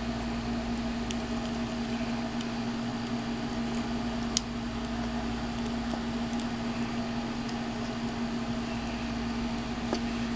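Steady background hum with a constant low tone, and a few small clicks of plastic action-figure parts being handled as a Gatling gun is fitted into its holder, the sharpest click about four seconds in.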